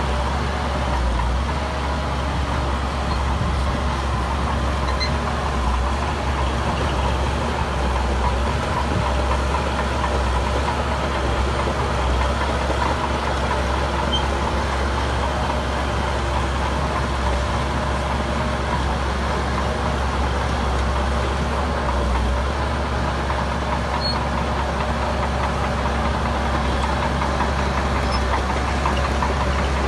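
Heavy diesel engine of construction machinery running steadily, with a strong deep drone and no change in engine speed.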